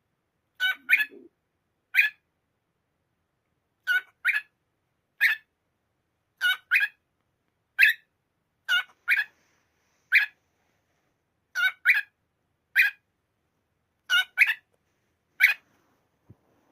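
A cockatiel giving short, harsh calls over and over, many of them in quick pairs, at about one call a second.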